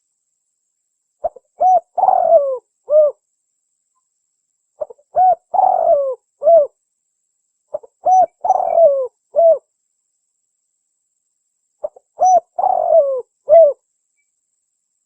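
Spotted dove (tekukur) cooing: four repeated coo phrases about three and a half seconds apart, each a few short notes around a longer falling middle note.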